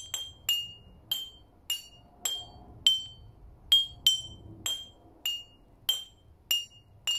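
A metal teaspoon dinging on a row of drinking glasses filled with water to different levels, played as a simple water-glass xylophone tune. There are about thirteen strikes, roughly two a second, each a short high ring, and the pitch steps up and down as different glasses are struck.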